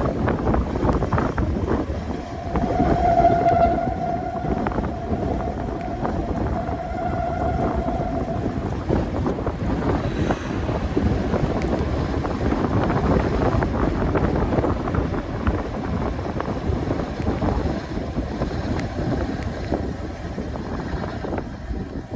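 Wind buffeting the microphone while cycling, with road noise underneath. A steady whining tone joins it about two seconds in and lasts about six seconds.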